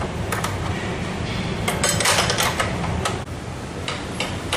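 Hand tools and metal exhaust parts clinking and knocking as they are handled, in a busy run about two seconds in, over a steady low hum.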